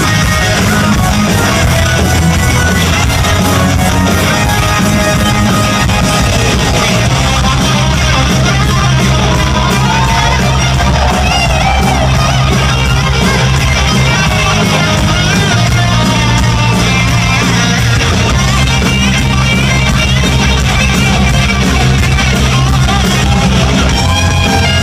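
Live rock band playing loud with electric guitars over a sustained bass line that shifts note every few seconds.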